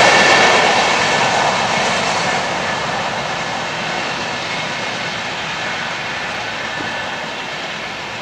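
Coaches of an express passenger train rolling away over the rails, the wheel-on-rail rumble fading steadily as the train draws off.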